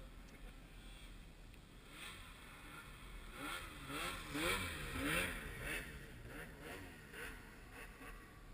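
Snowmobile engine revving up and down several times in quick succession, loudest about halfway through, then fading.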